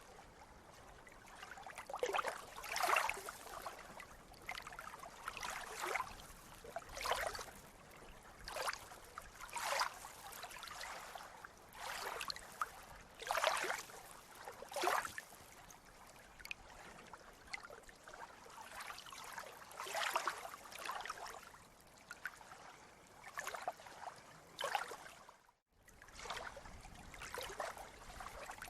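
Small sea waves lapping and splashing, a short splash about every second or so. Near the end the sound cuts out for a moment and resumes.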